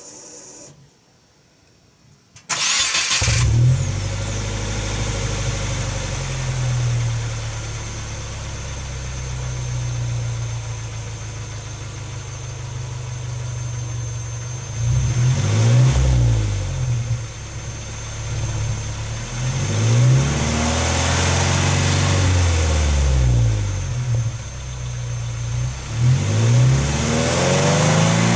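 Subaru Impreza G4's flat-four engine, breathing through a Kakimoto Kai aftermarket muffler, starting about two and a half seconds in, then idling with a low exhaust note and being revved several times, the pitch rising and falling with each blip. The owner thinks the exhaust sounds restrictive.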